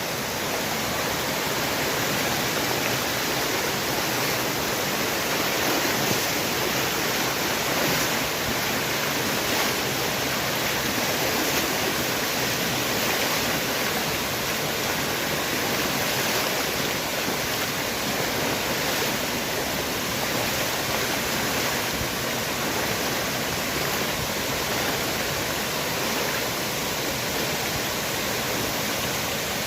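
Waterfall in full flow, a steady, unbroken rush of falling water.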